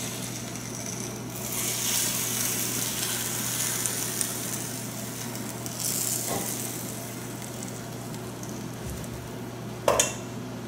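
Hot sauce with chicken and broccoli sizzling and hissing as it is poured from the pan over the pan-fried noodles, fading in the second half, with a couple of light clinks of a utensil against the pan.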